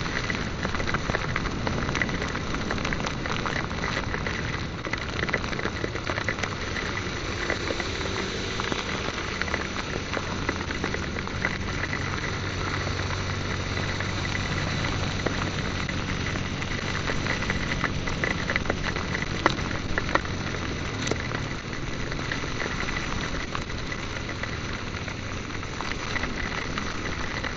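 Heavy rain hitting close to the microphone: a dense steady hiss peppered with many sharp drop hits, with a motorcycle engine running low and faint underneath.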